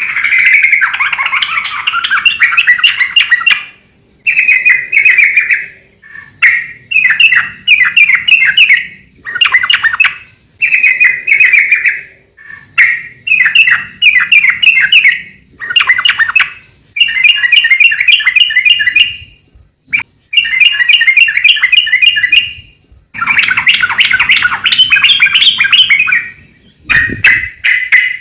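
Yellow-vented bulbul (trucukan) singing loudly in a long run of short, bubbly, warbling phrases, each a second or two long with brief pauses between them.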